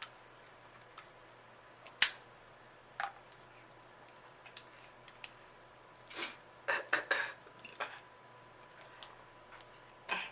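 Snow crab leg shell being cracked and snapped apart by hand: scattered sharp cracks and clicks, with a loose cluster about six to eight seconds in.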